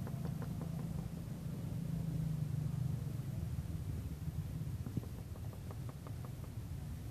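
A motor vehicle engine running steadily at idle, a low rumble. A short run of faint clicks comes about five seconds in.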